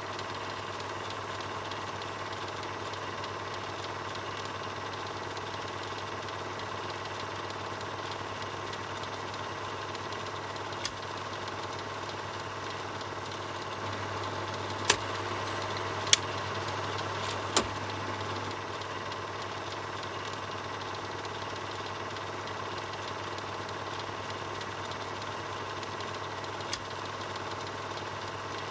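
Film projector running: a steady mechanical whirr over a low hum. A few sharp clicks cut through it, three of them close together about halfway through.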